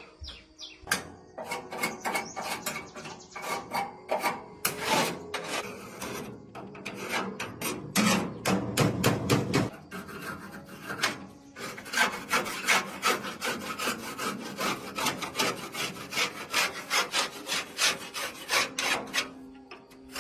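Repeated hand scraping or rubbing strokes, about three a second, in runs with short pauses.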